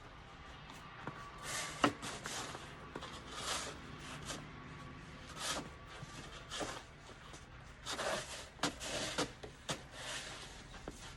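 Snow being shovelled: a series of irregular scraping and crunching strokes in snow, with one sharp click about two seconds in.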